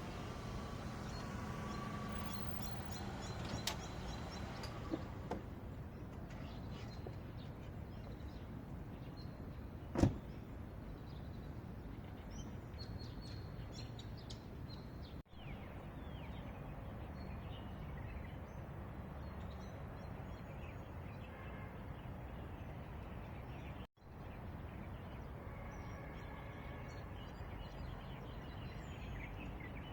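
Park ambience: a steady low background hum with scattered short bird chirps. A single sharp knock about ten seconds in is the loudest sound.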